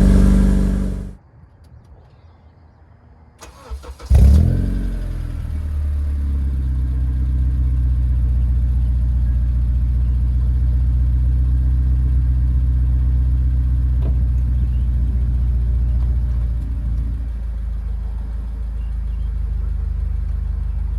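2006 Acura TSX 2.4-litre four-cylinder engine, breathing through an aftermarket header and cat-back exhaust. It is running, then stops about a second in. After a short pause it cranks briefly and catches with a sharp rev flare, then settles into a steady, deep idle that drops a little near the end.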